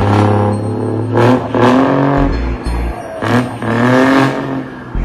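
Turbocharged car engine revving in repeated swells, with a hiss of turbo air after several of them, mixed with music that has a deep bass.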